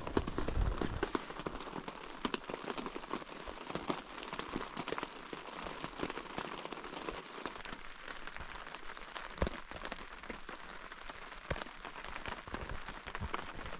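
Rain pattering steadily on a tent, a dense hiss of fine drops with an occasional louder tick.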